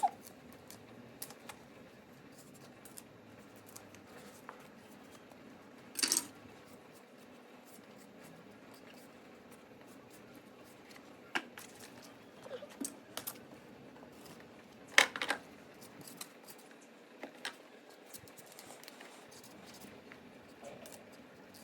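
Scattered light clicks, taps and scrapes of objects being handled, with two louder short knocks about six and fifteen seconds in, over a faint steady background hiss.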